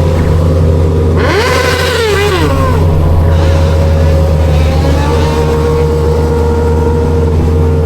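Suzuki Bandit 1250's inline-four engine running at a steady speed under the rider. About a second in, a pitched call rises and falls with a wobble. Later a steady tone holds on top of the engine.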